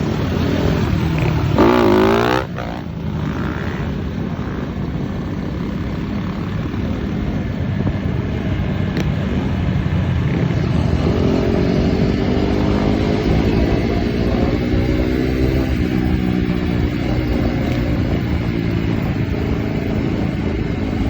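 Dirt bike engines running and revving on the street. There is a loud rev that wavers in pitch about two seconds in, then from about halfway an engine note that holds and slowly climbs.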